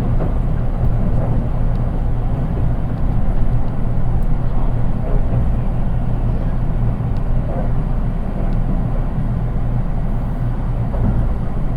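Cabin running noise of a JR East 183 series electric train under way, heard inside its unpowered KuHa 183 driving trailer car: a steady low rumble of wheels on rail, with no motor whine.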